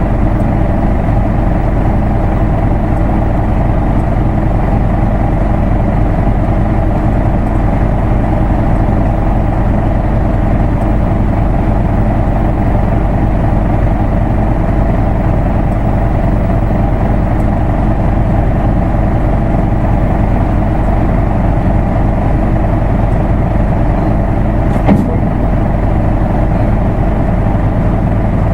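Isuzu Erga Mio city bus's diesel engine running steadily at an even pitch, with one short knock about 25 seconds in.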